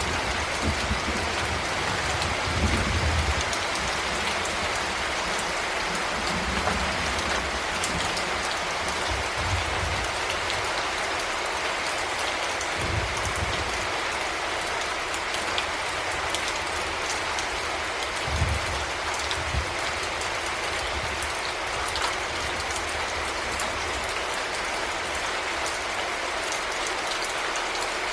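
Heavy rain falling steadily, a dense even hiss of drops on surfaces, with a few brief low rumbles along the way.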